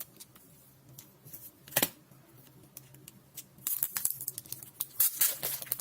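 Hands handling photo cards and their packaging: a few light clicks and taps, then, from about three and a half seconds in, a steady run of crinkly rustling.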